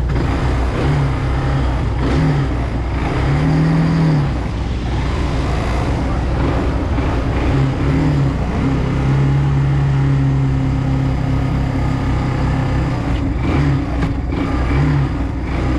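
Small motorbike engine running, its revs rising and falling several times over a steady rumble. It is running properly again now that the fuel valve is open.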